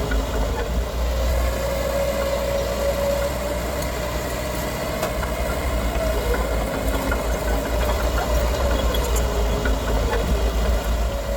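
Heavy earthmoving machine's diesel engine running steadily: a deep rumble with a whine that drifts gently down and up in pitch.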